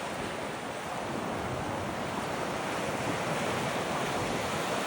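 Sea surf washing steadily onto the beach, with some wind on the microphone.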